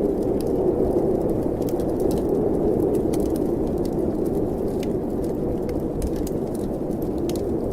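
Snowstorm wind blowing steadily as a low rushing noise, with the sharp pops and crackles of a wood fire in a fireplace scattered throughout.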